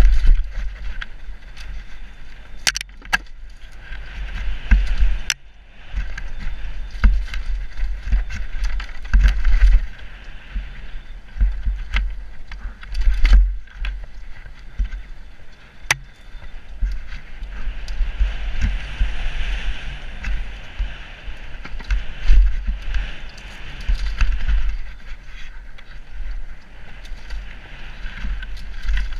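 Downhill mountain bike riding fast down a forest trail: wind buffeting the microphone, a steady rush of tyres on dirt, and frequent sharp clicks and knocks from the bike's chain and frame over bumps.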